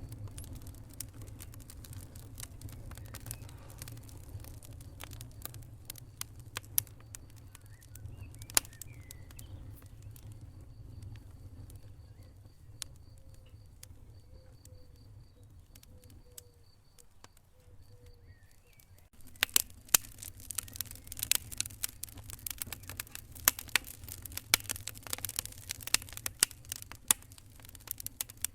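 Wood fire crackling in a fireplace: scattered sharp pops and snaps over a low rumble of the flames. The pops thin out through the middle, then grow dense and busy about two-thirds of the way in.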